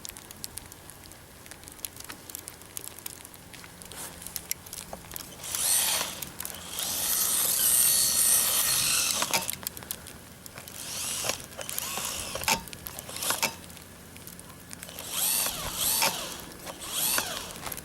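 Brushless electric motor of a Traxxas Mini E-Revo VXL RC truck whining in bursts, its pitch rising and falling as the truck accelerates and spins. The longest burst is about six to nine seconds in, with shorter ones later.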